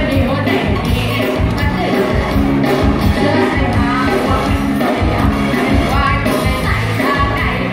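Live band music with a singer, steady and loud throughout.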